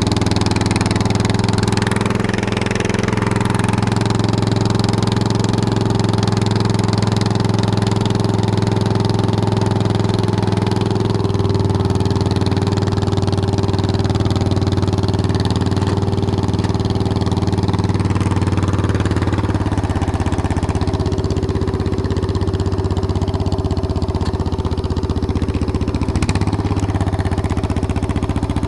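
Lawn tractor engine running through a straight pipe with no muffler: a loud, steady exhaust note, with small changes in engine speed partway through.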